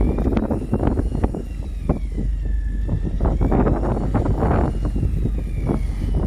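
Fishing boat's engine running with a steady low rumble, under irregular wind and water noise, with a faint high whine that slowly rises and falls in pitch.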